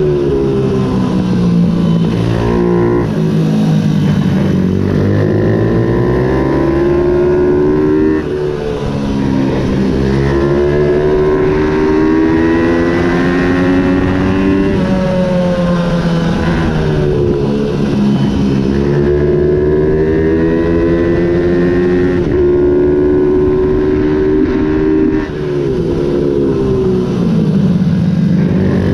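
Ohvale 110 minibike's single-cylinder four-stroke engine racing at high revs. Its note climbs steadily and then drops sharply, over and over, as the rider changes gear and brakes for corners.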